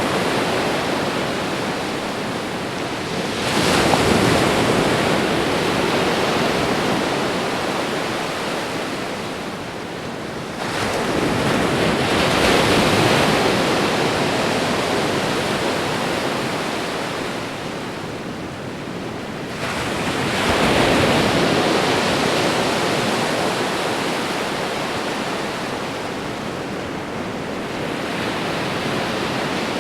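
Ocean waves breaking on a shore, a continuous rushing wash that swells with each breaker about every eight seconds and eases between them.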